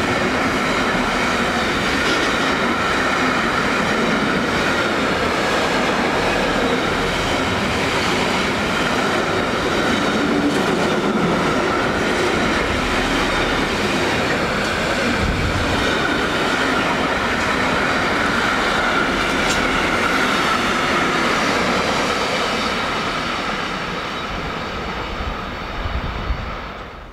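A train passing close by: steady rolling noise with wheel clatter and a high steady whine, fading away over the last few seconds.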